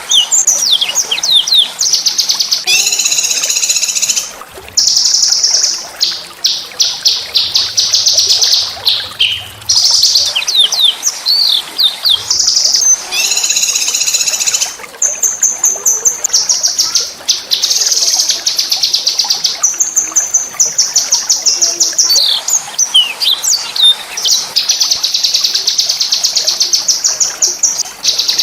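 Small songbird singing almost without a break: long, high, fast trills and rolling runs of rapidly repeated notes, broken by short sharp chirping phrases.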